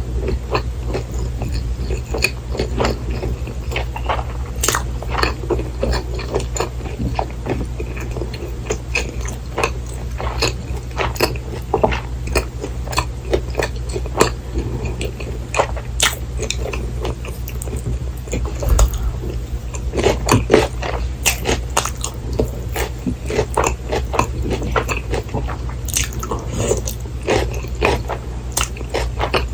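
Close-miked eating of breaded cheese pork cutlet: biting and chewing with many short, sharp, crisp crunches, over a steady low hum.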